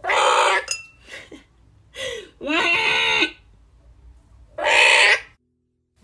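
A bird giving five harsh, screechy calls of uneven length, the longest nearly a second, with pauses between them.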